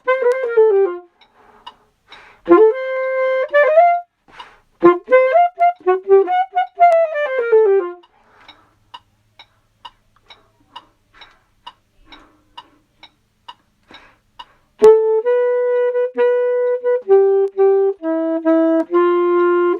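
A single reed instrument plays a melody alone. Early phrases slide up and down in pitch. About halfway through there is a pause with only soft clicks, then longer held notes step through the tune.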